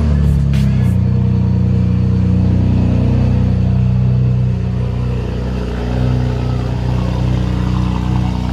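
BMW F80 M3's twin-turbo S55 inline-six running at a steady high idle just after a cold start, heard from behind at the quad exhaust tips.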